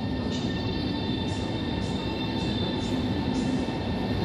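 PKP Intercity Pendolino (Alstom ED250) electric train running past the platform of an underground station. A steady rumble with several faint, steady high tones, and a short hiss repeating about twice a second.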